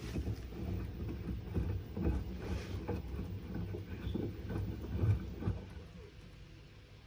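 LG washing machine drum turning on a cotton 95° boil wash, the laundry and water inside sloshing and thumping irregularly. The sound eases off about six seconds in.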